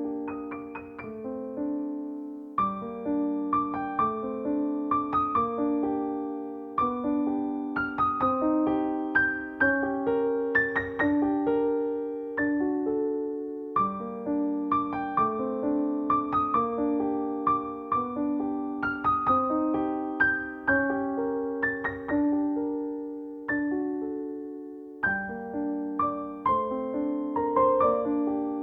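Background piano music: a gentle melody of struck, sustained notes over repeating chords.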